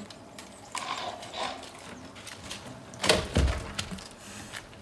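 A few light wooden knocks, then one heavy thud about three seconds in: a hand-sawn log dropping.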